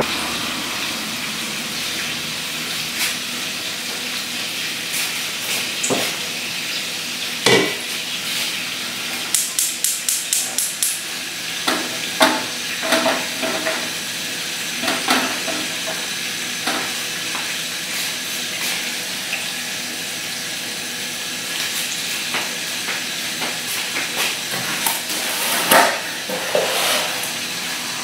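Tofu cubes frying in oil in a non-stick pan, a steady sizzle. Scattered knocks and clatter of pans and utensils break it, with a quick run of about eight ticks near the middle.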